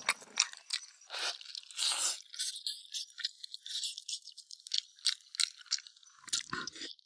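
A person chewing and sucking on soft braised pig trotter: irregular wet smacks and clicks of the mouth on sticky skin and bone, with a brief low sound near the end.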